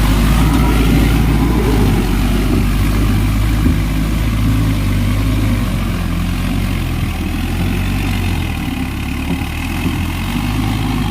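Tractor engine running steadily as it ploughs a paddy field.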